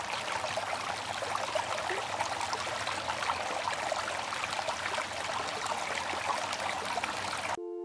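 Water from a small stone model waterfall fountain splashing and trickling steadily. It cuts off abruptly near the end, and held music tones begin.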